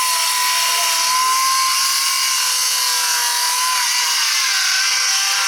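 A power saw running steadily at speed, a loud high whine that wavers slightly in pitch over a hiss.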